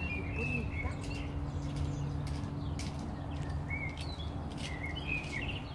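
Birds chirping in short, scattered calls, with a steady low hum underneath.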